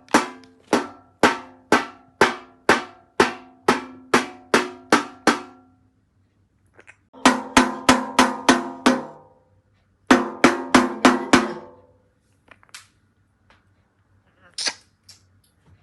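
A grey parrot knocking on a hollow object that rings after each strike. There is a run of about a dozen knocks, then after a pause two quicker runs of about seven knocks each, and finally a few faint taps.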